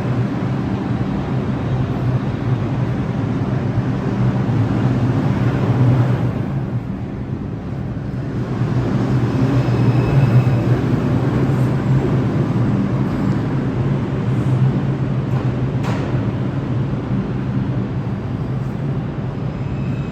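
New York City subway train running at the station, a steady rumble with a low hum, easing briefly about seven seconds in, with a single sharp click later on.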